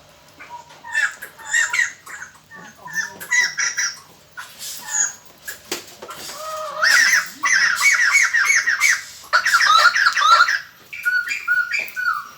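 Laughingthrushes calling: a loose run of squawks and whistled notes that builds about halfway through into a loud, rapid chattering chorus, then breaks off into scattered calls near the end. It is a lure call played to draw wild birds in.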